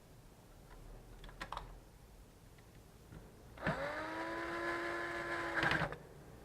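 Small electric screwdriver motor spinning up with a rising whine and running steadily for about two seconds while driving a laptop screw, then a short rough rattle as it stops. Light clicks of small parts come a few seconds before it.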